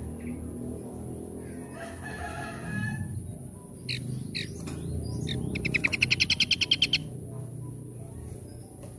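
Birdsong from several calls: a harsh call about two seconds in, then a few sharp falling whistles, then a loud rapid trill of about ten notes a second near the end, over a steady low background noise.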